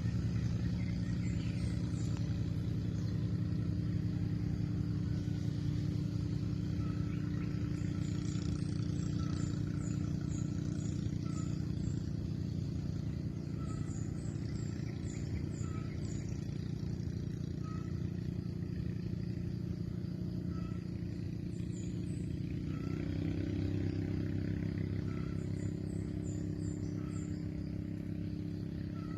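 An engine running steadily with a low hum, its pitch shifting slightly about two-thirds of the way through. Short series of high chirps come and go over it.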